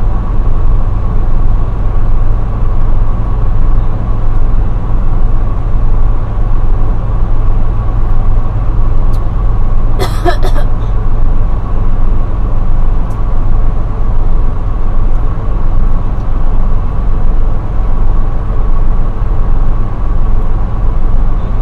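Semi-truck running at a steady low drone, heard from inside the cab, with one brief sharp sound about ten seconds in.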